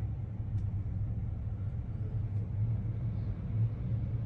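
Heavy truck's diesel engine idling: a steady low rumble.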